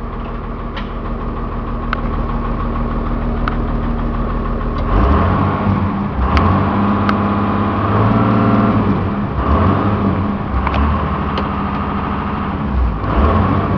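Cummins diesel engine of a step van running, its note rising and changing about five seconds in, again around eight seconds and near the end, with a few sharp clicks scattered through. The engine has a noise that the owner suspects is tied to low oil pressure once warm, and that seems to go away when it is revved.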